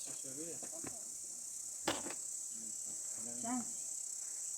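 Crickets chirring in a steady high-pitched drone, with one sharp knock about two seconds in.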